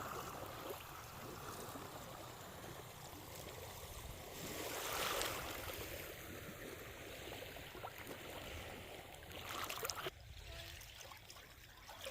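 Gentle sea water washing and lapping at the shore, swelling up about five seconds in and again near ten seconds.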